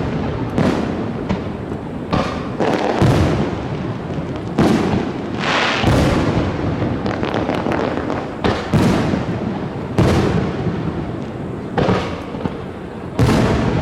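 Aerial firework shells bursting in quick succession: about ten sharp bangs, one every second or two, each fading out into a rumbling tail, with crackle filling the gaps between them.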